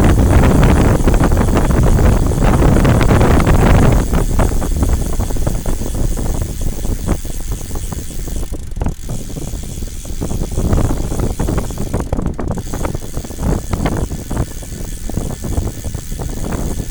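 Wind buffeting the microphone while riding downhill, with a dense low rumble that is strongest in the first few seconds and then eases, over a run of small rattles and clicks.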